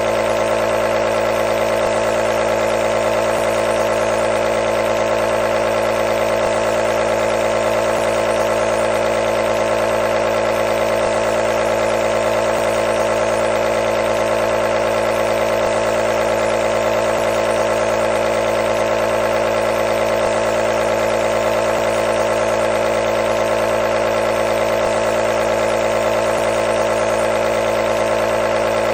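Nebulizer's compressor running, a steady electric buzzing hum with no change.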